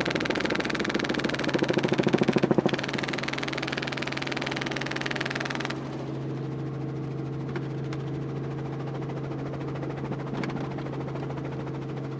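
Helicopter engine and rotor noise, a steady hum with rapid pulsing. A louder rushing noise over it drops away about six seconds in.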